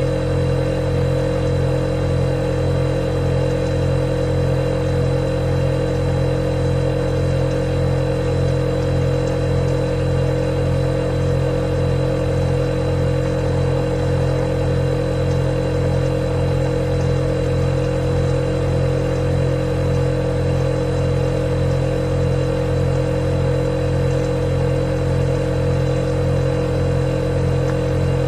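Refrigerator compressor running with a steady, unchanging hum and a faint high whine.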